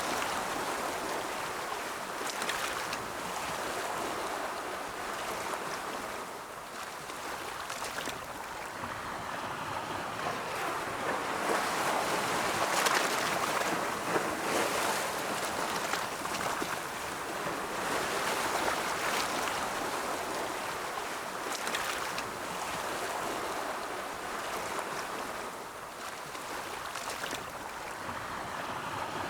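Ocean surf: the steady rushing wash of rolling waves, swelling and easing slowly over several seconds, loudest near the middle.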